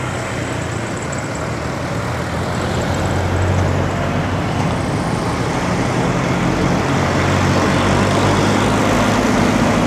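Steady road traffic noise heard from a moving bicycle, with the low hum of nearby motor vehicle engines. The traffic grows somewhat louder about halfway through.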